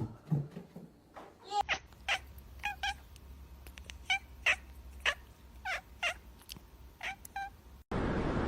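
A cat giving a string of about a dozen short meows, a few per second. Near the end they give way to a steady hiss.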